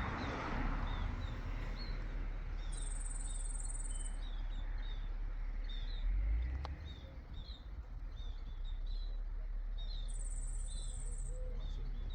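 Small birds chirping over and over in short calls, with two high insect trills of about a second each, one near the start and one near the end. A steady low rumble runs underneath, and a single sharp click with a short low thump comes about six seconds in.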